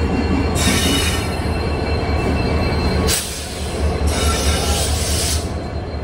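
Passenger train hauled by a diesel locomotive rolling into the station past the platform, with a steady deep engine and wheel rumble. Two spells of high hiss and screech from the wheels and brakes come about half a second in and again around four seconds in.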